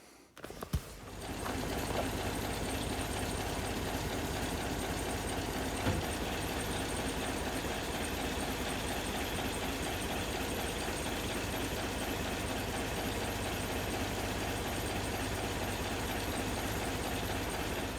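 A knock about a second in, then a vehicle engine comes in and runs steadily with an even low throb.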